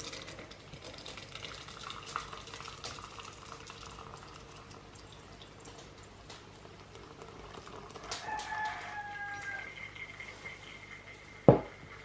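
Faint pouring and trickling of hot maple syrup, with a pitched call like a hen's, slightly falling, about eight seconds in, and one sharp knock near the end.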